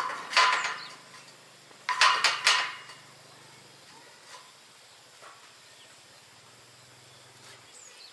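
Iron bars clanking against each other or against metal, in two short clusters of sharp knocks: one at the start, another about two seconds in, with a ringing tone under each.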